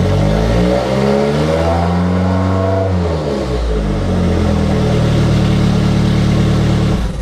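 Car engine running through a makeshift exhaust, revved once about a second in, rising and falling back to idle, then cutting off near the end.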